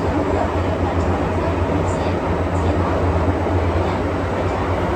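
MTR Tsuen Wan Line M-Train running at speed between stations: a steady low rumble of wheels on rail and running gear, with a few faint high ticks about two seconds in.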